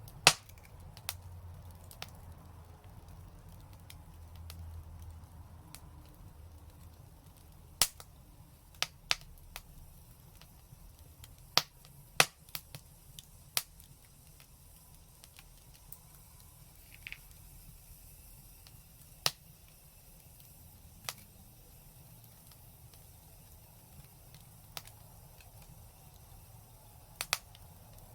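Wood fire crackling, with about a dozen sharp, irregular pops over a low steady hiss.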